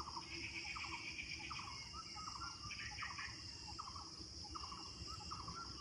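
Outdoor ambience: a steady high insect buzz, with a short chirping animal call repeating about once a second over a low rumble.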